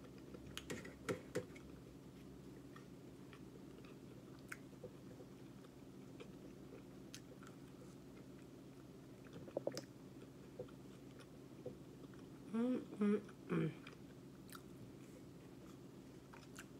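Close-miked chewing and biting of fried chicken nuggets, with soft wet mouth clicks. About three-quarters of the way in come a few short hummed sounds from the eater's voice, the loudest thing here.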